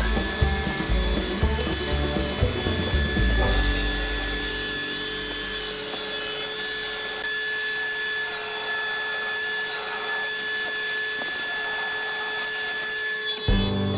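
Corded electric chainsaw running steadily as its chain cuts into a thick hardwood slab, under background music. The sound changes abruptly just before the end.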